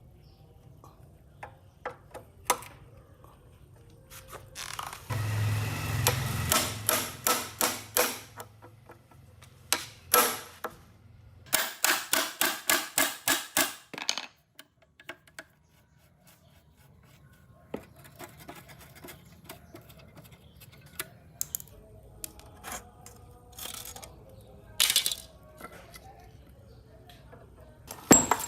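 Hand work on metal machine parts: scattered clicks and knocks over a low hum, with two runs of rapid, evenly spaced strikes, about five a second, the first about five seconds in and the second after about eleven seconds.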